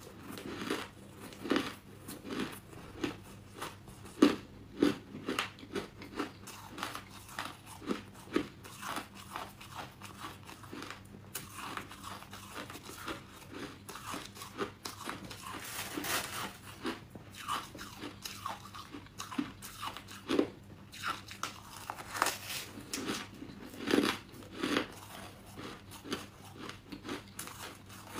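Close-miked chewing of crunchy buckwheat chunks: an irregular run of crisp crunches, about one or two a second.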